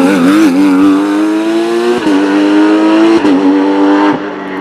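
Porsche race car engine accelerating hard up a hillclimb, the pitch rising and dropping sharply at two upshifts about two and three seconds in.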